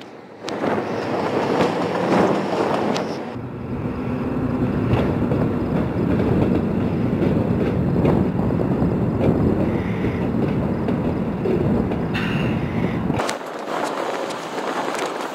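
Freight train with Union Pacific diesel locomotives moving through a rail yard: a steady rumble of engines and rolling rail cars. The deepest part of the rumble drops away near the end.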